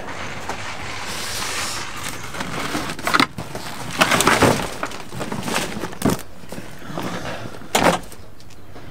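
Gear being handled in a car's boot: rustling, with several sharp knocks and clatters as bags and equipment are moved and a backpack is lifted out.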